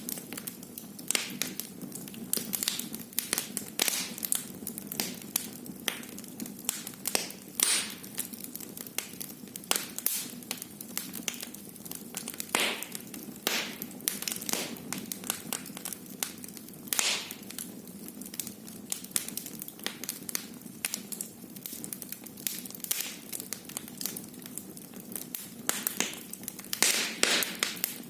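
Wood fire burning in a fireplace, crackling with many irregular sharp pops and snaps, some louder than others, over a steady low background.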